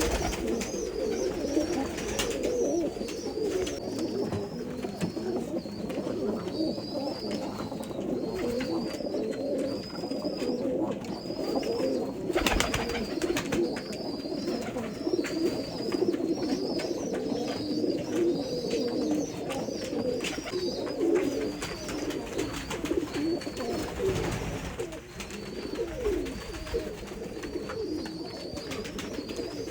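Pigeons cooing continuously, many voices overlapping, with many small clicks through it and a thin, wavering high sound above.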